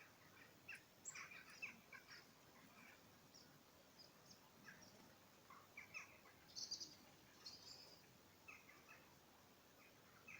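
Faint, short bird chirps and tweets, scattered irregularly through the whole stretch, some higher-pitched than others.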